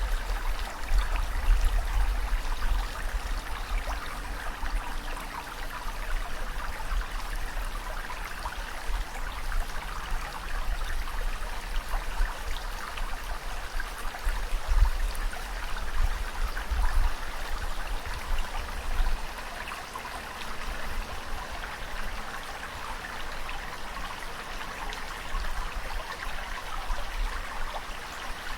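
Water running steadily, a continuous rush and trickle, with deeper low rumbles swelling near the start and again a little past the middle.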